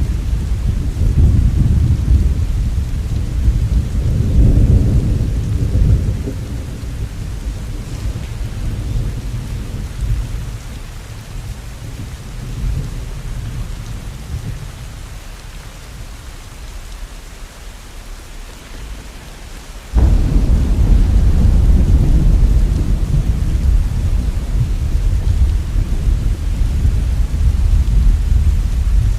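Steady rain with low rolling thunder. The rumble is loud at first, fades away, then comes back suddenly about two-thirds of the way in.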